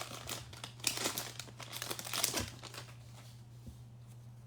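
Foil wrapper of a Hoops basketball card pack crinkling and tearing as it is opened by hand, dense crackling for about two and a half seconds, then a few faint clicks as it stops.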